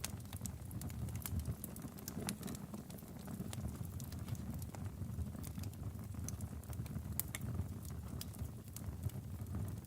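Wood fire burning in a fireplace: a low steady rumble with frequent irregular sharp crackles and pops from the burning logs.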